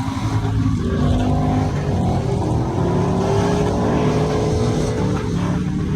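Truck engine revving hard, its pitch climbing over a few seconds and then easing off about five seconds in.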